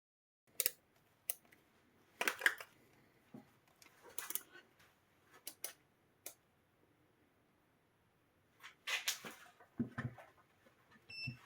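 Scattered light clicks, taps and rustles of small objects being handled on a workbench, with a short high electronic beep near the end.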